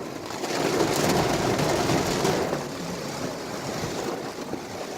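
Noise of a car driving in rain, heard inside the cabin: tyres hissing on the wet road along with the rain, louder for the first couple of seconds and then easing off.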